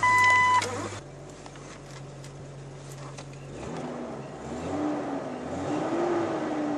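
1999 Jeep Cherokee engine idling steadily, then revved up and down several times from about four seconds in, its exhaust now running through a new Walker Quiet-Flow stainless steel muffler and tail pipe, heard from inside the cabin. A dashboard chime beeps briefly at the very start.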